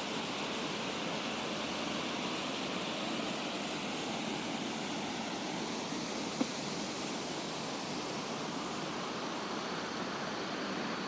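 Waterfall rushing in a steady, even roar of falling water, with a single brief click about six seconds in.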